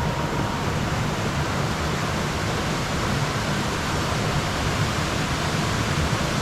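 Steady rushing of running water, an even noise with no let-up.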